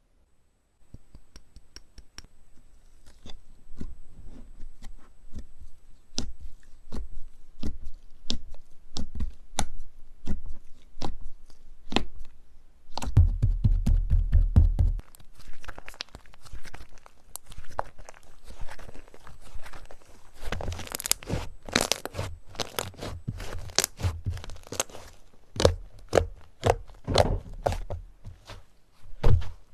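Slime being pressed and worked by hand, a run of small crackling clicks and crunches, sparse at first and growing denser and louder about halfway through.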